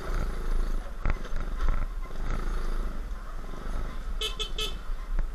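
Motorcycle riding on the road with a steady low engine and wind rumble. About four seconds in, a horn gives three short toots.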